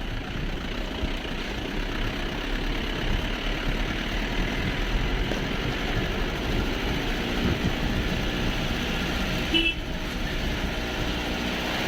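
Motor vehicle engine and road noise running steadily, with a brief short tone about ten seconds in.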